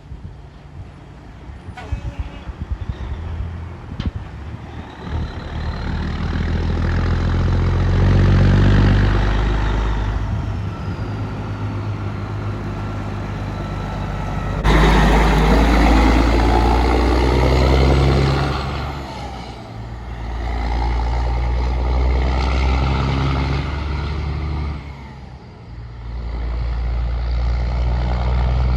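Heavy trucks driving past one after another, their diesel engines and tyre noise swelling and fading several times. The loudest pass-by starts abruptly about halfway through.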